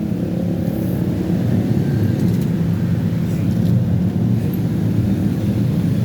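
Steady, loud low rumble of a large vehicle running past, without any break.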